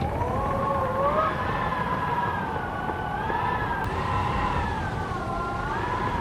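Wind howling: a wavering, whistling wail that slowly rises and falls in pitch over a steady low rush of gusting air.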